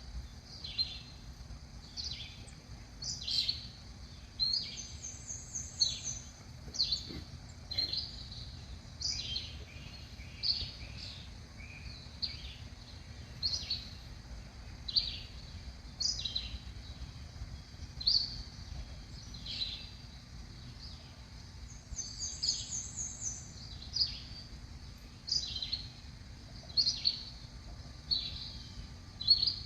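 Backyard songbirds calling: short, sharp chirps repeated about once a second, with a brief rapid high trill twice.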